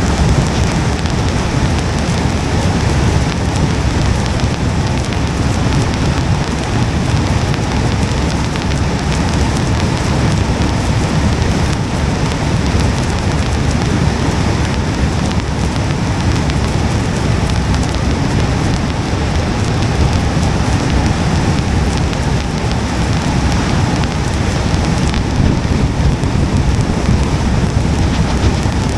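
Steady rain on a moving car's windshield and body, heard from inside, over a low rumble of wet-road and engine noise.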